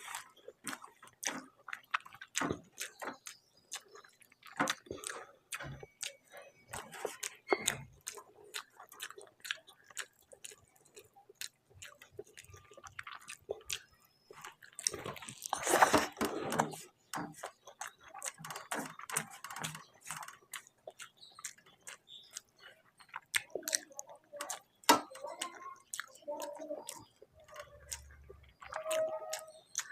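Close-miked eating sounds: wet chewing, lip smacks and small clicks as rice and curry are eaten, with a louder noisy burst about halfway through.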